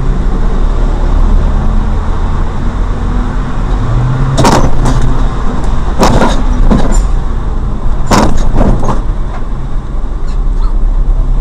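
A car driving, with a steady, loud road and engine rumble. Several sharp knocks come in pairs between about four and nine seconds in.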